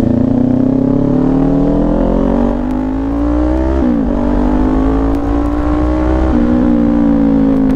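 Kawasaki Ninja 400 parallel-twin engine through an SC Project exhaust, accelerating under way. It climbs in pitch, drops sharply at an upshift about four seconds in, climbs again and shifts up once more about six seconds in, then holds steady.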